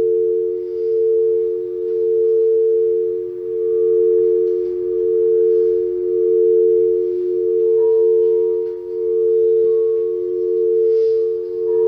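Quartz crystal singing bowls ringing: two steady low tones held together, the sound swelling and fading about once a second. A higher tone joins about two-thirds of the way through.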